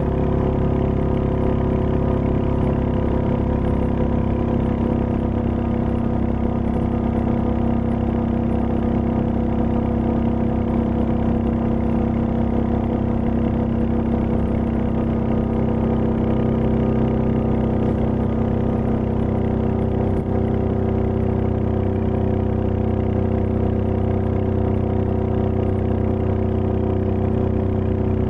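Royal Enfield Meteor 350's single-cylinder engine running at a steady speed, its pitch holding almost constant.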